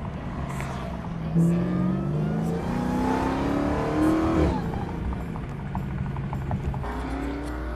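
Car engine accelerating, heard from inside the cabin: its pitch climbs steadily for about three seconds, drops suddenly, then holds a steady, lower note.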